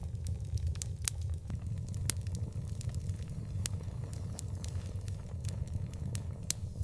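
Open fire crackling, with frequent sharp pops of differing strength over a steady low rumble.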